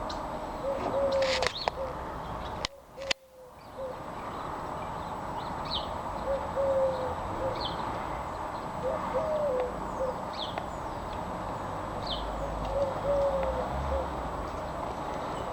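A pigeon or dove cooing in repeated low phrases, with a small bird giving short, high, falling calls every two or three seconds over a steady background hiss. The sound cuts out briefly about three seconds in.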